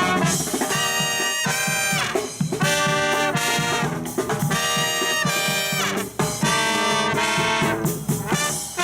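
Live brass band playing: trumpets and trombones in full chords over a rhythmic bass line.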